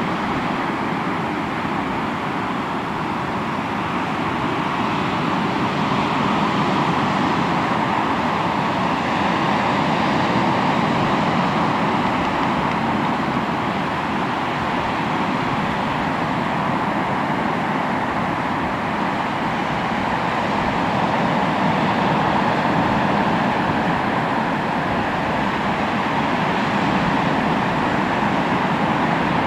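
Sea waves washing onto a shore: a continuous rush of surf that swells and eases slowly every several seconds.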